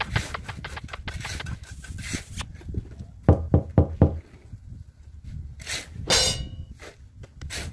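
Knocks and taps from hollow-block laying work: light taps throughout, a run of about five heavy knocks a little past three seconds in, and a short rasping noise about six seconds in.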